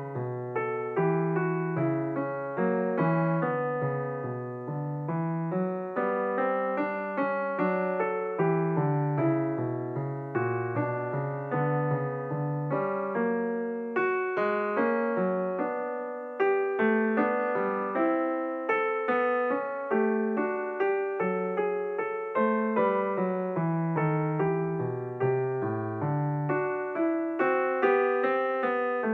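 Calm, slow piano music: a steady stream of soft notes and chords, each note dying away after it is struck.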